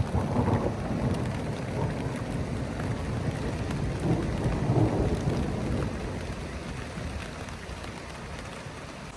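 Thunder rumbling over steady rain, the rumble swelling about half a second in and again around four to five seconds, then dying away.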